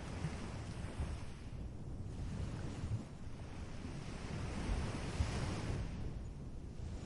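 Ocean surf washing up on a beach, swelling twice about three seconds apart, with a low rumble of wind on the microphone.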